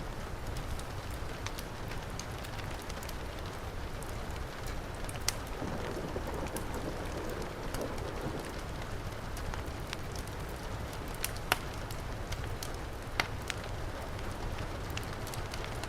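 Heavy rain hissing steadily, mixed with a wood fire crackling, with a few sharper pops standing out.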